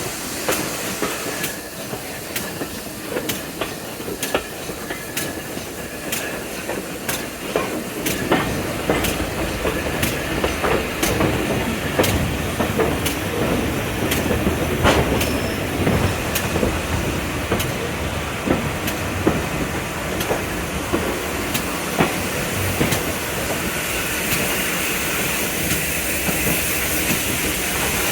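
Railway train running on the line, its wheels clicking steadily over the rail joints about once or twice a second, over a continuous rumble.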